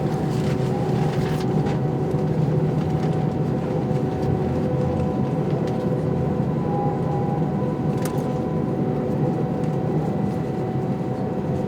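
Airbus A319 jet engines running steadily, heard from inside the passenger cabin: a constant rushing drone with a steady whine of several held tones. There is a brief click about eight seconds in.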